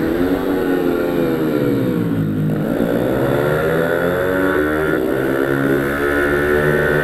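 Pit bike (minimotard) engine running hard on track: the revs drop for about two seconds as it slows, then climb steadily as it pulls away again.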